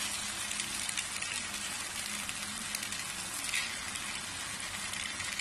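Vegetables and sauce sizzling steadily in a nonstick wok, with small crackles, as boiled noodles are piled in on top.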